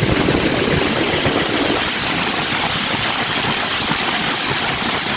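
GWR 7714, a pannier tank steam locomotive, working up a bank. A heavy low rumble dies away about two seconds in, leaving a steady hiss of steam and running noise.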